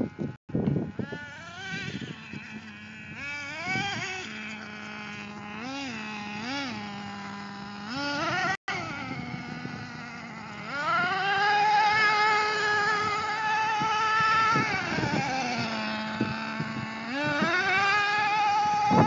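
RC truck's motor revving in short blips, then winding up to a steady high whine for a few seconds as the truck runs at speed. The whine drops back to a low hum and rises again near the end.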